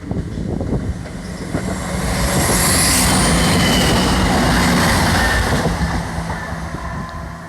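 Train passing close by: a knock of wheels at the start, then a loud rush of wheels on rail that swells to a peak about two seconds in, holds, and fades toward the end.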